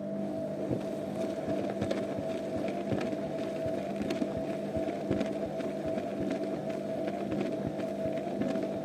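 Zanussi washing machine running with a steady, pitched hum and light clicking and rattling over it. The hum starts abruptly and cuts off about nine seconds later, as a pump or motor does when it switches on and off for one stage of the programme.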